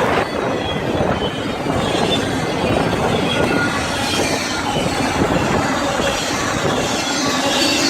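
A BNSF train rolling past close by: a steady loud rumble of wheels on rail, with brief faint high-pitched squeals now and then.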